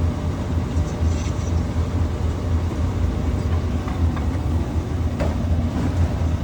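Steady low rumble of a running machine, constant in pitch and level, with a few faint light knocks.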